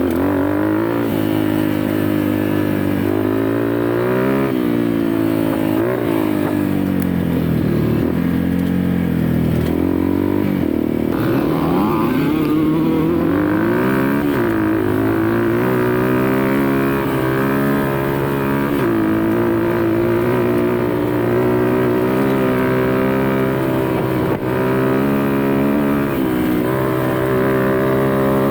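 Off-road motorcycle engine riding and revving, its pitch climbing and dropping several times in the first half, then holding a steadier note.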